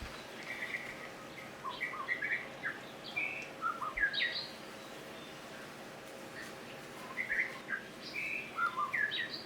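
A songbird singing two phrases of quick, varied chirps, the second phrase starting about seven seconds in and repeating the first.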